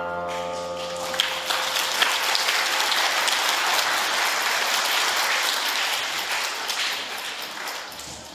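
The last chord of the orchestra's piece held for about a second, then audience applause that fades near the end.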